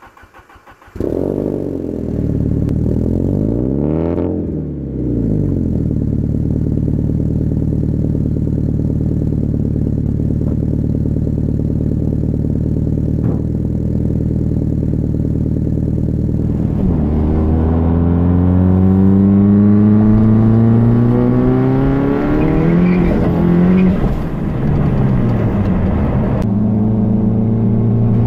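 1995 Saab 900 turbo's 2.0-litre turbocharged inline-four cold-starting through its 3-inch stainless turbo-back exhaust: it catches about a second in, the revs flare up and settle back for a few seconds, and then it idles steadily. A little past the middle the engine runs louder, with the revs rising and falling as the car is driven.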